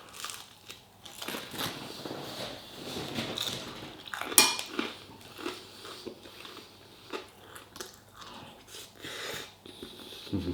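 Cutlery clinking and scraping on a plate while a person eats and chews a mouthful of chilli con carne, with one sharper clink about four seconds in.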